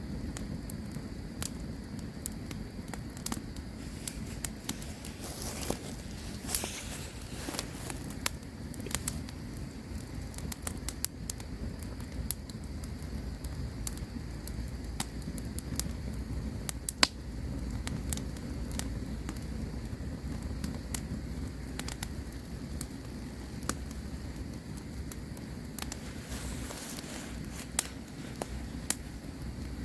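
Campfire crackling: frequent sharp snaps and pops over a steady low rumble of the flames, with one louder snap midway. A brief rush of hiss comes twice, about six seconds in and near the end.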